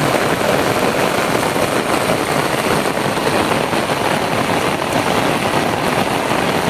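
Heavy rain falling steadily in a downpour, a dense even hiss that does not let up.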